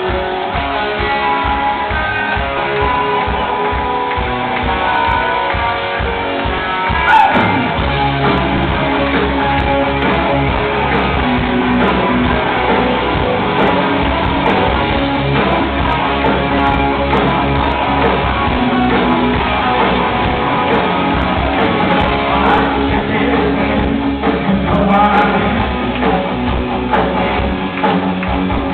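Rock band playing live in a large hall, with electric guitars and drums. A steady drum beat is heard under the guitars at first, and the band's sound fills out about seven seconds in.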